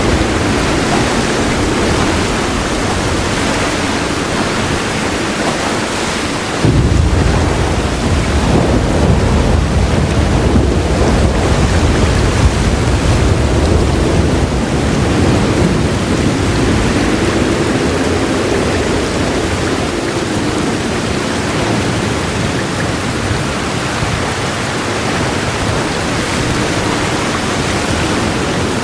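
Heavy rain pouring steadily, with a low roll of thunder that comes in suddenly about seven seconds in, rumbles for around ten seconds, and then fades back into the rain.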